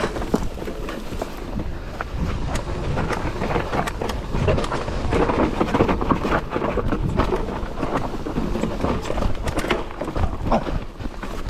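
Mountain bike rattling and clattering over a rough, rocky trail: many sharp knocks from the bike over a steady low rumble of tyres and wind on the microphone.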